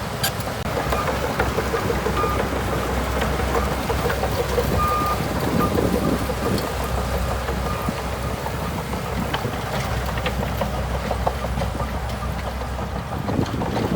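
Bulldozer's diesel engine running steadily under work, with a constant low hum and broad mechanical noise, and a few short high tones.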